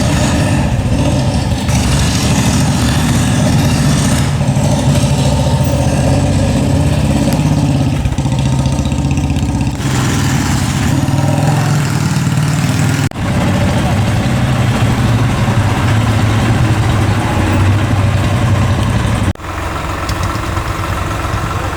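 A vehicle engine running steadily at a low, even pitch, broken off abruptly twice: once about two-thirds of the way through and again near the end.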